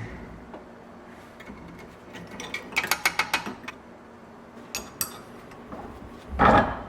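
Metallic clicks and clinks of tool work on a garden tractor: a quick run of about eight sharp clicks, two more a little later, then a louder, heavier clunk near the end.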